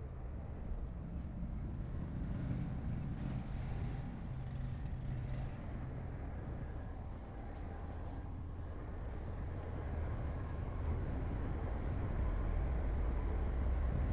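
Heavy diesel earthmoving machinery running, a steady low engine rumble that grows louder over the last few seconds.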